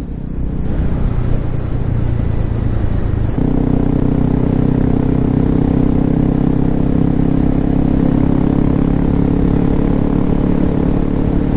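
Honda CRF250L's 250 cc single-cylinder four-stroke engine running on the move through an aftermarket FMF Q4 exhaust with Mega Bomb header. The engine note gets louder and fuller about three seconds in, then holds steady.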